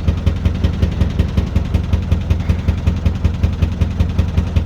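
Narrowboat diesel engine running steadily under way, chugging with an even, rapid beat.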